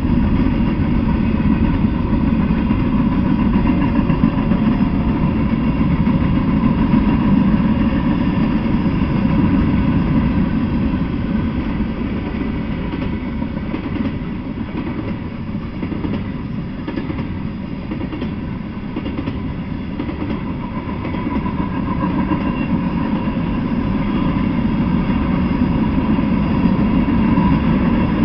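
Freight train of covered hopper and tank cars rolling past: a steady, loud rumble of steel wheels on the rails, easing slightly for a few seconds about halfway through.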